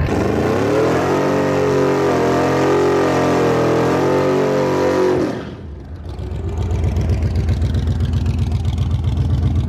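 Drag car engine revving up high and held there, its pitch wavering, then cutting off sharply about five seconds in. After it, a loud, low, lumpy rumble of a big engine running at low revs.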